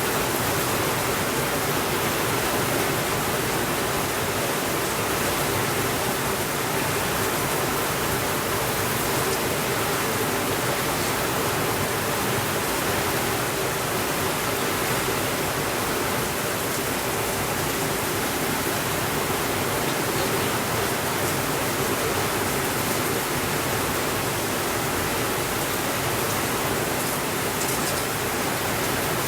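Steady rainfall, an even hiss that holds at one level without breaks.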